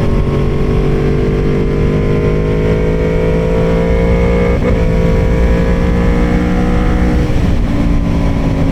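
2013 Aprilia Tuono V4R's V4 engine running under load on the road, its pitch slowly climbing. The note breaks briefly about four and a half seconds in, then drops to a lower steady pitch about seven seconds in.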